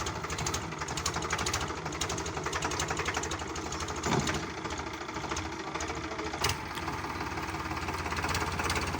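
Powertrac Euro 45 tractor's diesel engine running with a rapid, even clatter. A brief louder sound about four seconds in and a sharp click a couple of seconds later.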